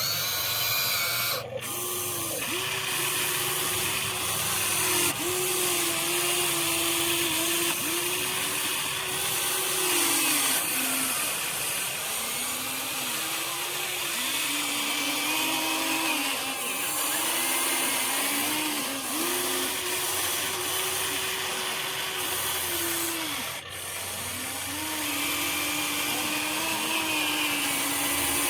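Electric gear motors of a Huina 1593 RC excavator whining through repeated moves: each run starts with a rising whine, holds steady for a few seconds, then falls away as the motor stops, about eight times in a row.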